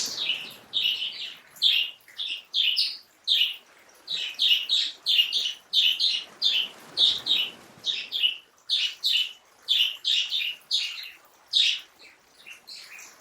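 Birds chirping: a quick series of short, bright chirps, about two or three a second, over a faint background hiss.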